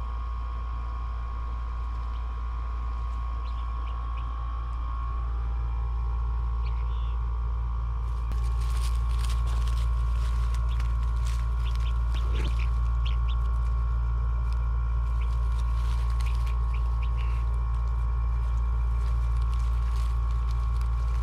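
Guinea fowl keets chirping with short, high peeps over a steady low rumble; the peeps grow much denser from about eight seconds in.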